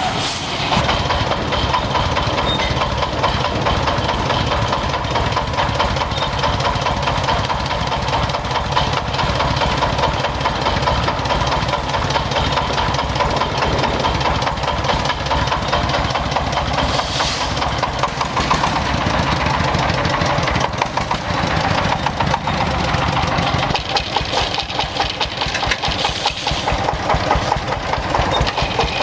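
Restored old tractor engine running steadily at idle.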